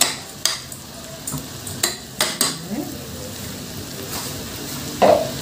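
Freekeh and onions frying in ghee in a pot, sizzling steadily, while a spoon stirs them, knocking against the pot about five times in the first few seconds and once more near the end.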